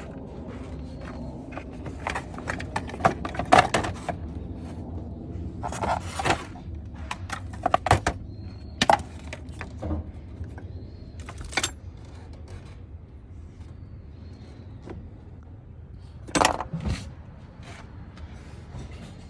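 Yamaha Jog ZR scooter engine idling steadily, with sharp clicks and knocks scattered over it, the loudest about three and a half seconds in and near the end.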